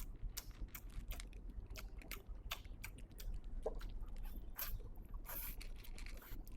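Close-up eating sounds of a person chewing and slurping mixed noodles in black bean sauce, with irregular wet mouth smacks and clicks.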